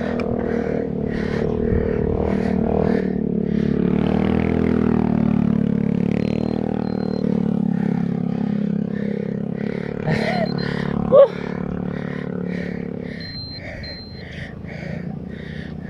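A cyclist panting hard and rhythmically, about two breaths a second, while labouring up a steep climb. A motor vehicle's engine hums alongside, dips in pitch about four seconds in, and fades near the end. There is a sharp click about eleven seconds in.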